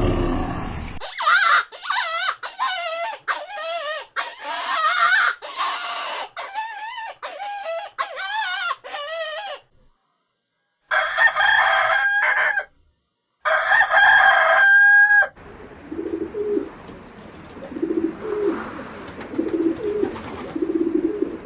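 Chickens calling: a quick run of short, wavering clucks and cackles, then a rooster crowing twice about halfway through. From about 15 s in, low repeated pigeon coos follow.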